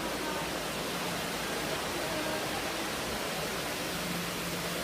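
Steady rush of water cascading down the tall walls of an indoor waterfall, an even, unbroken hiss.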